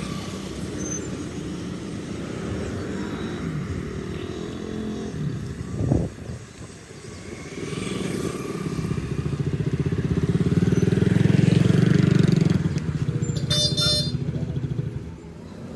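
A motor vehicle's engine running, growing louder to a peak about two-thirds of the way through and fading near the end, with a sharp thump about six seconds in.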